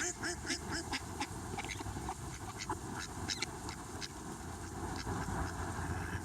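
A bird's small calls: a quick run of short, soft, duck-like notes, about five a second, that stops within the first second, followed by scattered faint clicks and a rustle.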